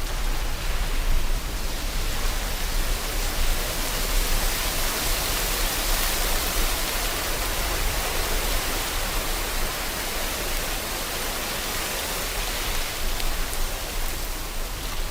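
Steady rain with waves washing ashore, an even hiss that swells in the middle and then eases.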